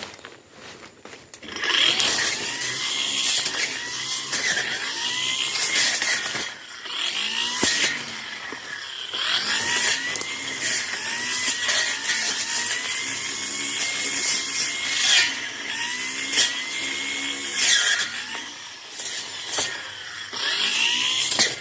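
Tanzu brush cutter engine running loud, its pitch rising and falling over and over as the throttle is worked while cutting brush; it comes in about a second and a half in after footsteps on vegetation.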